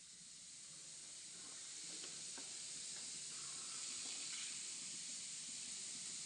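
Faint steady hiss that grows slowly a little louder, with a few faint ticks in it.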